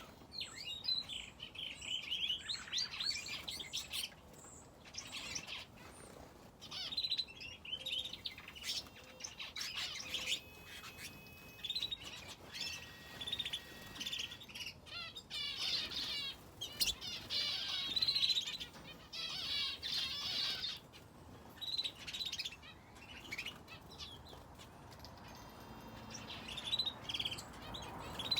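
Aviary finches and a canary chirping and twittering: high, quick notes and trills in short runs, broken by brief pauses.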